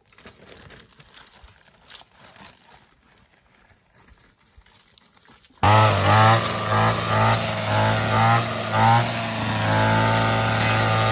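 Faint clicks and rustling, then about halfway through a small petrol engine suddenly starts up and runs loudly, its pitch wavering as the throttle moves.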